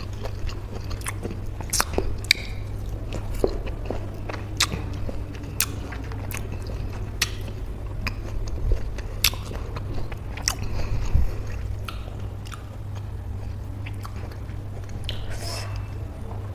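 Close-miked chewing of a peeled orange segment coated in salt and chili flakes: wet mouth smacks and sharp juicy clicks at irregular intervals, over a low steady hum.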